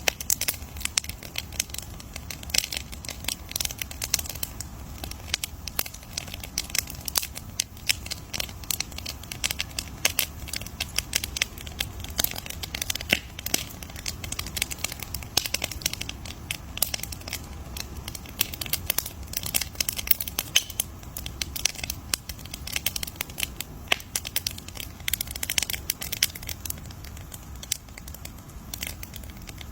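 Campfire crackling: a dense, irregular run of sharp pops and snaps over a low steady rumble of burning wood.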